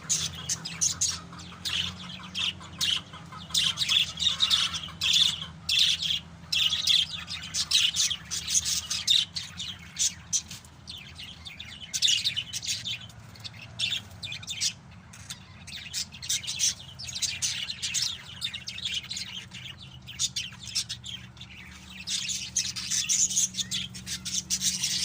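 A group of pet lovebirds and parakeets chirping and chattering in rapid, overlapping high calls that come in dense bursts, with a faint low steady hum underneath.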